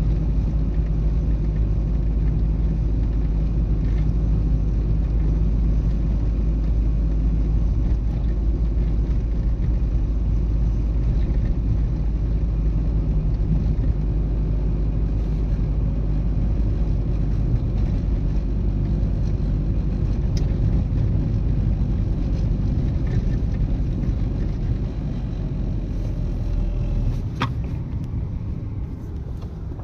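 An old Renault Twingo being driven: a steady low rumble of engine and road noise, which eases off somewhat near the end.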